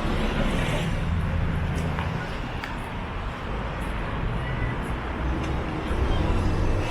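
Steady outdoor city background: a low, even rumble like traffic, with indistinct voices.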